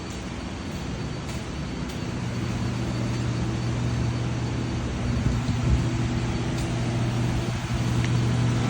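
Portable generator's engine running with a steady low hum, gradually growing louder.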